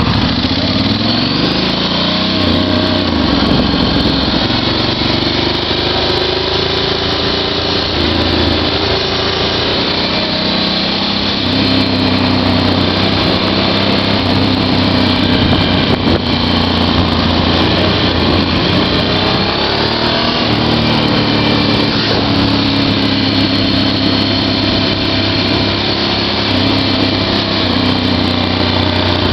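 Small motorcycle engine running hard under the rider, its revs climbing and dropping again and again as the throttle opens and closes through the ride.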